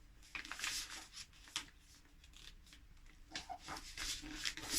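A sheet of printer paper rustling as it is folded and creased, with short sharp crinkles about half a second and a second and a half in, and more rustling towards the end.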